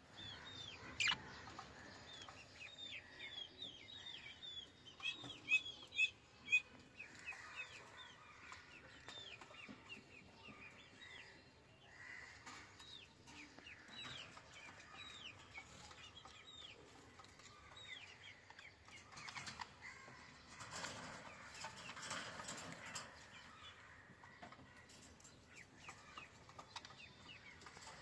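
Budgerigars chirping: many short, falling chirps throughout, with a flurry of louder calls about five to six seconds in and a stretch of rustling noise around twenty seconds in.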